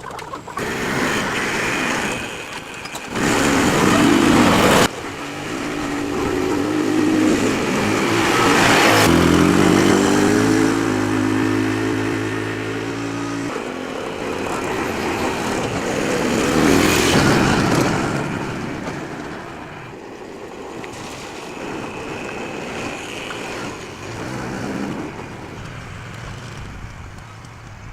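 Motorbike engines passing close by. One engine's note rises as it speeds up, holds, then stops abruptly about halfway through.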